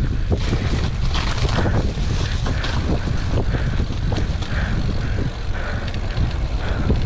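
Wind buffeting the microphone over the steady rattle and knocking of a mountain bike descending a rough, muddy trail.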